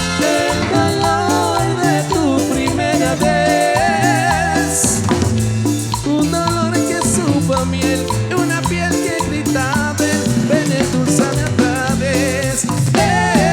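Live Latin band playing an instrumental passage: keyboard melody over bass, drum kit and percussion, at a steady loud level.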